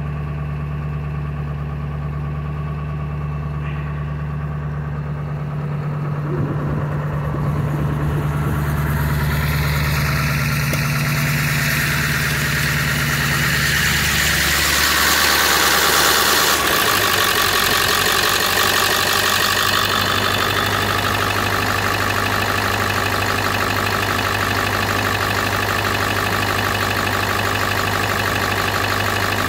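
Ford 7.3 Power Stroke V8 turbo-diesel idling after a cold start, with a hissing rush that builds up over several seconds and then holds. About halfway through, the low idle note shifts and then runs steadily.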